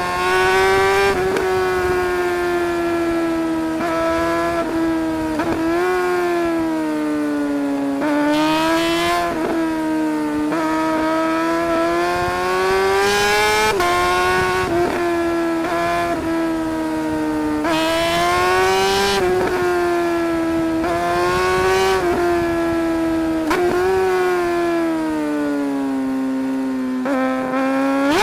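Suzuki GSR 600's inline-four engine under way on the road, its note climbing for a few seconds and then dropping sharply, over and over, as it is ridden through the revs.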